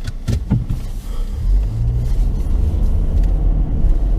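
Car driving slowly: steady low engine and road rumble, with a few short knocks in the first half-second.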